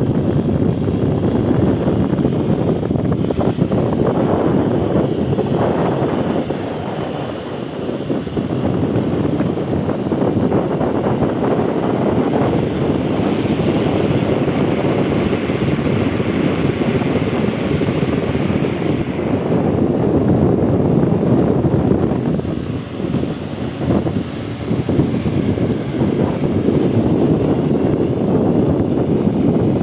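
DJI Mavic 4 Pro drone propellers buzzing steadily in flight, mixed with gusty strong wind on the microphone. The wind eases briefly twice.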